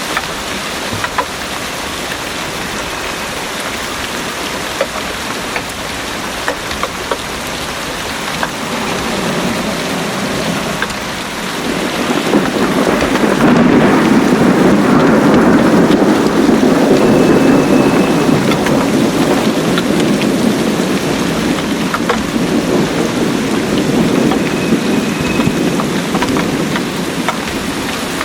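Heavy rain pouring steadily, with scattered drops ticking. About eleven seconds in, a long rolling rumble of thunder swells up, holds loudest for several seconds, then slowly fades under the rain.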